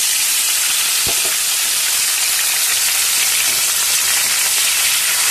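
Chopped tomatoes, green chillies and grated ginger sizzling in hot mustard oil in a kadhai, a steady hiss as the wet vegetables fry, stirred with a spatula.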